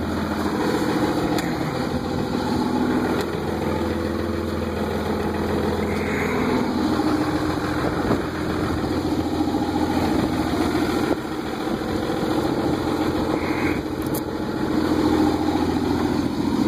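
1998 Dodge Ram 2500's 24-valve Cummins 5.9 L inline-six turbo diesel idling steadily shortly after a cold start, not yet in high idle, through a 4-inch MBRP turbo-back straight-pipe exhaust.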